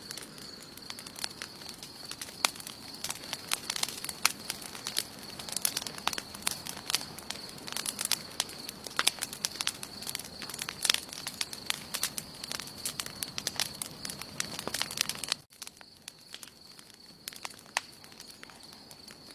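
Wood campfire crackling, with many sharp pops and snaps over a low hiss and a steady high-pitched tone underneath. About fifteen seconds in the sound cuts off abruptly to quieter, sparser crackling.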